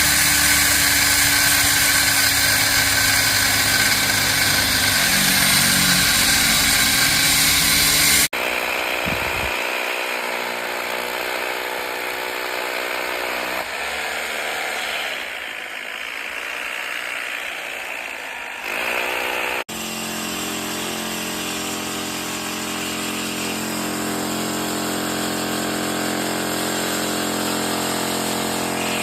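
Concrete-cutting power machinery running steadily, in three separately cut clips; the first clip is the loudest.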